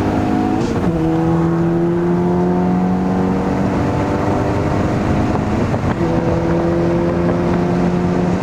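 BMW car engine pulling hard under acceleration. It climbs slowly in pitch and drops abruptly at two upshifts, about a second in and about six seconds in.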